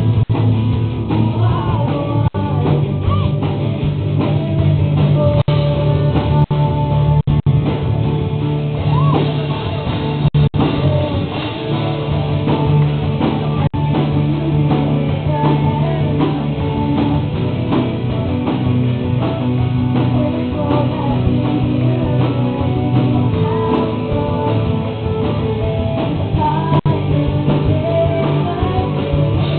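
Live rock band playing a worship song: electric guitar, bass and drum kit, with a voice singing over it.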